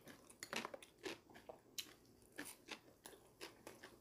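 A person chewing a mouthful of rice close to the microphone: faint, irregular wet mouth clicks and smacks, a few a second.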